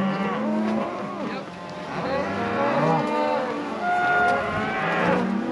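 A herd of cows and calves mooing and bawling, many calls overlapping.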